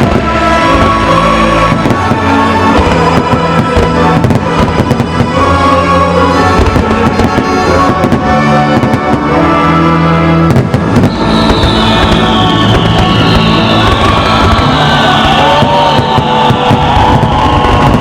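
Fireworks bursting in rapid, continuous bangs and crackles over loud music.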